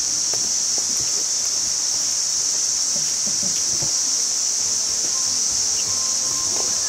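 Steady, high-pitched insect chorus of crickets, with scattered light knocks. Soft background music comes in near the end.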